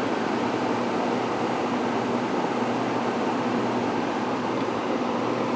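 Fedders A3R06F2B 5800 BTU window air conditioner running in fan-only mode on low speed, with the compressor off: a steady, quiet rush of air from the blower and condenser fan with a low, even motor hum.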